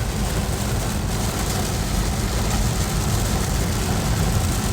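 Car driving in heavy rain, heard from inside the cabin: a steady low rumble of engine and road noise under an even hiss of rain and wet tyres.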